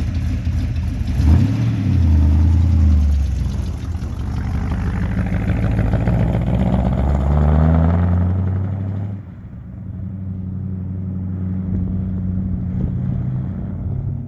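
1935 Ford truck's engine revved up twice, then dropping back to a steadier, lower run about nine seconds in.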